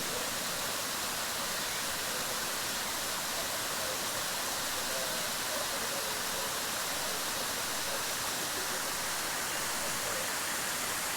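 Large waterfall rushing steadily: a constant hiss of falling water.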